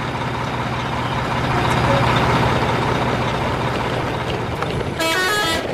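A convoy of plastic toy trucks pulled on a string over loose gravel, the wheels crunching and the bodies rattling, over a steady low hum. A brief pitched tone sounds about five seconds in.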